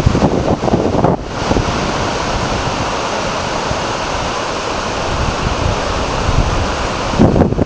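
Steady rushing of floodwater. Gusts of wind buffet the microphone in the first second and again near the end.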